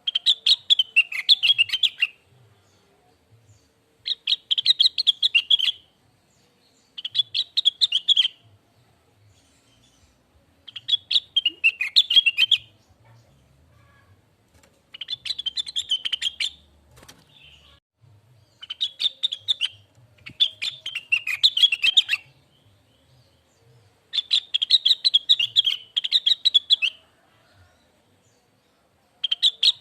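Blue-winged leafbird (cucak wilis) singing in phrases of rapid, high chattering notes, each phrase lasting about two seconds, repeated after short pauses.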